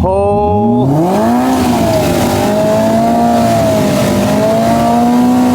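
Side-by-side UTV engine revving up sharply about half a second in and held at high revs, its 37-inch tires spinning in deep mud as the stuck machine tries to drive out.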